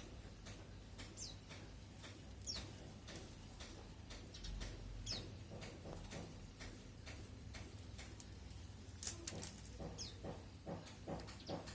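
Lovebirds eating: quick, sharp clicking and cracking from their beaks on food, with a few short high chirps that drop in pitch. A fast run of taps comes near the end.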